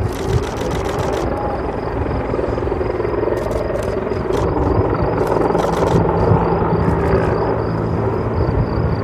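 A heavy engine running steadily, a loud low rumble with a constant hum under it and a few sharp clicks.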